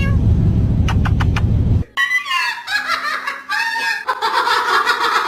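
A low rumble with a few sharp clicks, then from about two seconds in a pet parrot chuckling and snickering in a string of short, high, laugh-like calls.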